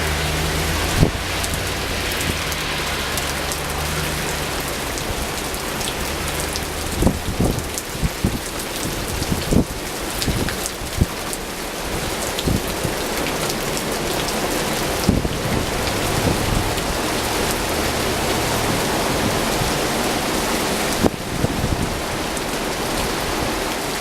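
Steady heavy rain falling and splattering on surfaces, with irregular heavier drops tapping and knocking, thickest between about 7 and 13 seconds in. A low rumble sits under it in the first few seconds.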